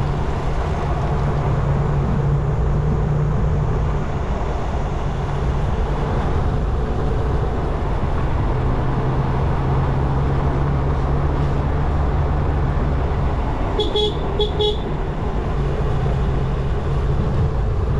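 Motorcycle engine running steadily while riding. About two-thirds of the way through, a vehicle horn gives two short toots.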